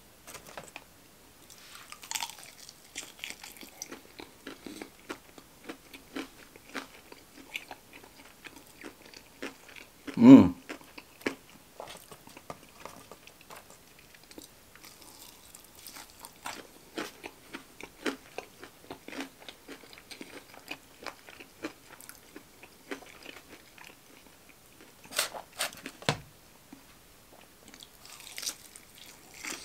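Close-miked chewing and biting of breaded fried chicken fingers, with many small clicks and crunches. About ten seconds in comes one loud, short, low sound that falls in pitch.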